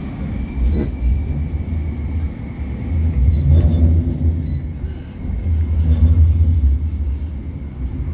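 CAF Urbos 3 tram running between stops, heard from inside the passenger saloon: a loud low rumble that swells and eases, with a thin steady high whine and a few light clicks.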